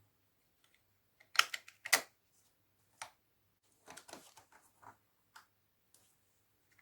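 Hard plastic clicks and taps from LEGO pieces and a LEGO-built assembling tool being handled: two sharp clicks about a second and a half and two seconds in, then a quick run of lighter taps around four to five seconds in.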